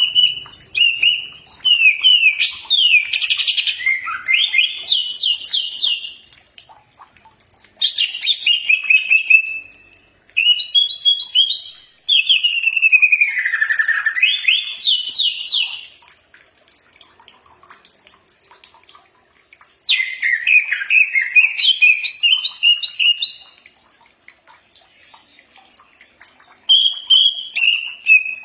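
Cucak ijo (green leafbird) singing: loud phrases of rapid trills and sliding whistled notes in several bursts, with short pauses between them.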